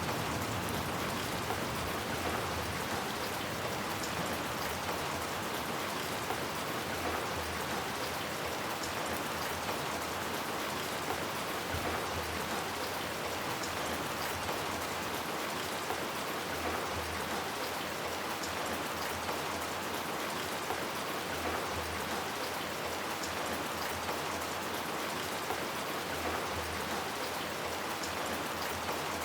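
Steady rain falling: an even hiss with scattered drop ticks and no change in strength.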